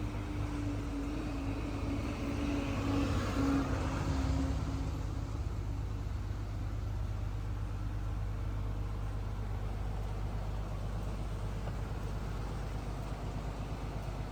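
Steady low hum of an idling vehicle engine, with a broader swell of vehicle noise about three to four seconds in.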